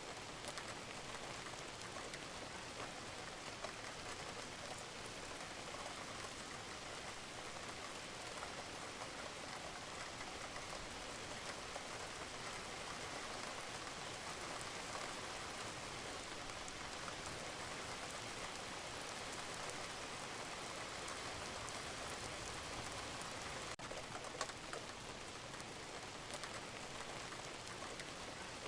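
Steady rain falling on a roof, with scattered individual drops ticking through the even hiss.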